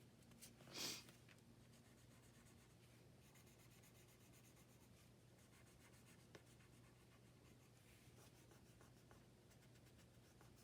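Faint rubbing and scratching on paper by hand, with one brief louder swish about a second in, over a steady low hum.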